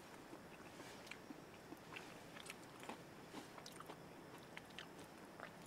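Faint eating sounds: soft chewing and small crackles as meat is pulled from a cooked chicken leg and eaten, the flesh coming off the bone easily.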